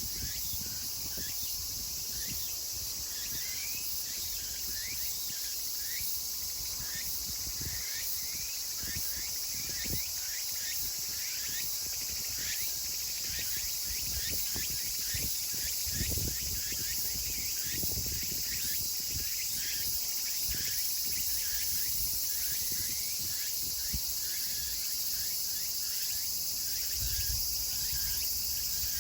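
Chorus of many tsukutsukuboshi cicadas (Meimuna opalifera) calling together: a steady, dense high-pitched buzz with many short repeated call strokes running through it.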